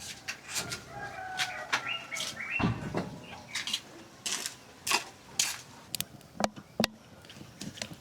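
Short bird calls in the first few seconds, with scattered sharp clicks and rustles throughout.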